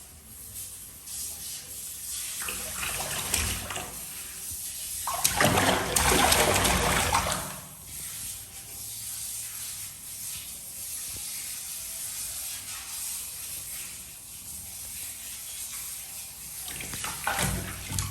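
Water running and splashing in uneven bursts, the loudest rush lasting about two seconds near the middle.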